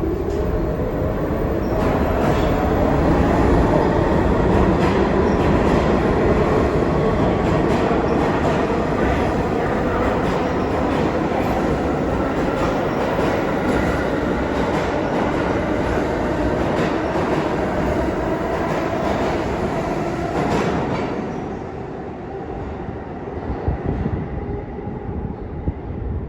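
New York City subway train's traction motors whining and rising in pitch as the train accelerates, with the wheels clicking over rail joints. The sound drops away about twenty seconds in.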